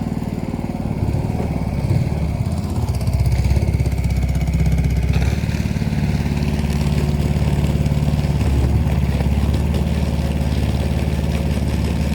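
A small boat's motor running steadily at a constant speed.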